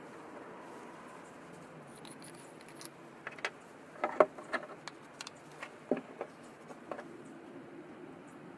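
Small metal parts being handled and set down: irregular light clicks and clinks, clustered mostly in the middle of the stretch, the loudest about four seconds in.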